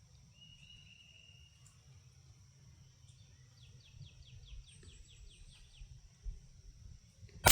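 Outdoor background of a steady high insect drone with birds calling, including a quick trill of about ten falling notes in the middle. Right at the end, a single sharp crack of a Brno Model 1 .22 LR rifle shot.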